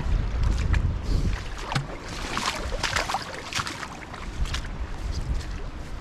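Gusty wind rumbling on the microphone, strongest in the first two seconds, with irregular wet splashing footsteps through shallow water and sodden ground.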